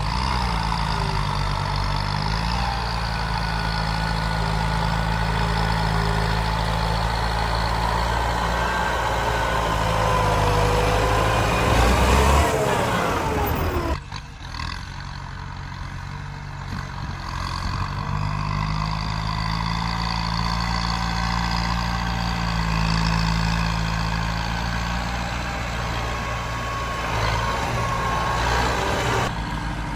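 Tractor engine running and working under load, its pitch shifting up and down as it revs. Its pitch climbs about two-thirds of the way through the first half. The sound then changes abruptly about halfway through and carries on more quietly.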